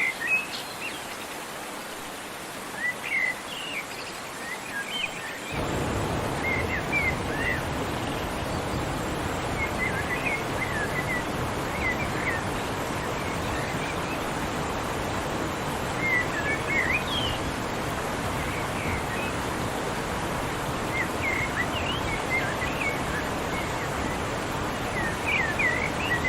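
Small birds chirping and singing in short scattered phrases over a steady rush of running water. About five seconds in, the water becomes louder and fuller.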